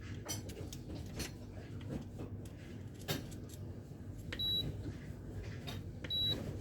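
Two short, high electronic beeps, one about four seconds in and another just under two seconds later, over scattered light clicks and knocks of small parts being handled on a workbench.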